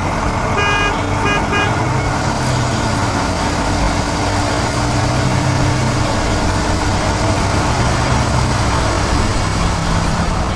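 Cartoon vehicle sound effects: a horn toots three short times about a second in, over a steady engine sound and a loud, continuous rushing hiss.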